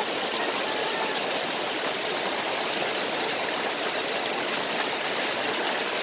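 Water of a small waterfall and stream rushing steadily, an even unbroken splashing hiss.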